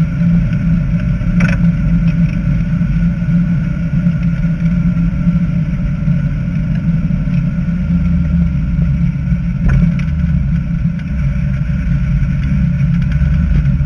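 Dodge Challenger's engine running steadily, heard from inside the cabin as a deep, even drone with no rise in revs. Two brief clicks come through, about a second and a half in and near the ten-second mark.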